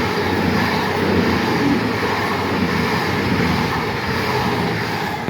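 CrossCountry Voyager diesel multiple unit passing: a loud, steady train noise of wheels on rail and its diesel engines, easing slightly near the end.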